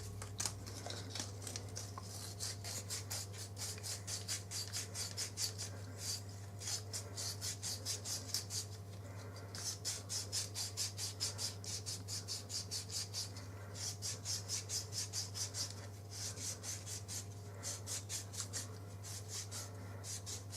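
Sandpaper rubbed in quick back-and-forth twists inside a plastic guide, rasping about three or four strokes a second in runs of a few seconds with brief pauses, easing a guide that binds on its cylinder.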